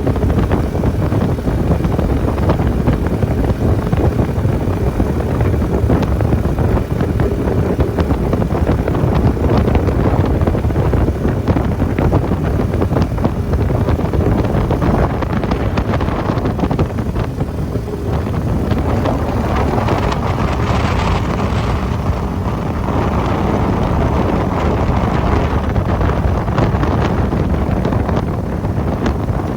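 Hot-rod duck boat's mud motor running steadily under way, with heavy wind buffeting on the microphone.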